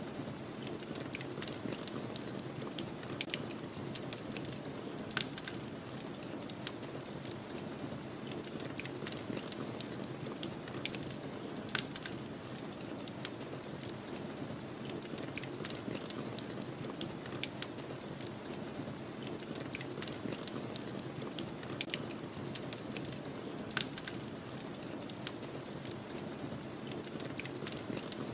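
Wood fire crackling, with irregular sharp pops and snaps several times a second over a steady low rush of snowstorm wind.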